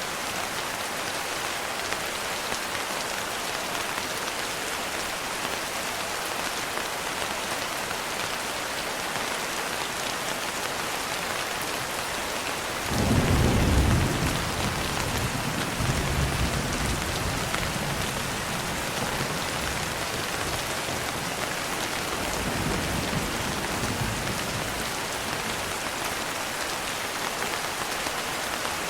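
Steady rain falling. About halfway through, a roll of thunder breaks in suddenly as a low rumble, then fades over a few seconds. A softer rumble follows later.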